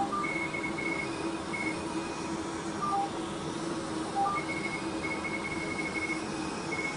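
Fraxel Repair CO2 laser beeping while it works on the skin: runs of short high beeps with occasional single lower beeps, over a steady machine hum and hiss.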